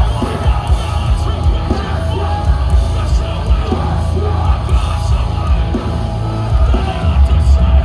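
A metalcore band playing live, with yelled, screamed vocals over loud distorted guitars, bass and drums; the sound is dense and bass-heavy.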